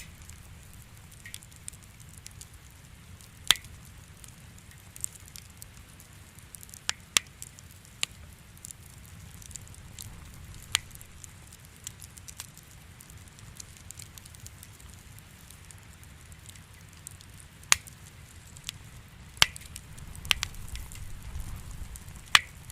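Fire crackling in a fireplace: irregular sharp pops and snaps over a steady low rumble, which swells slightly near the end.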